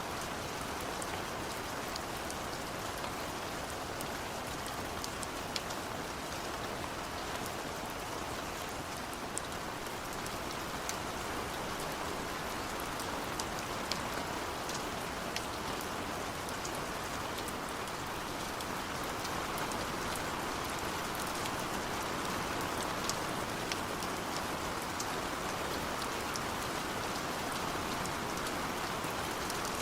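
Steady rain falling, an even hiss with scattered single drops ticking sharply through it.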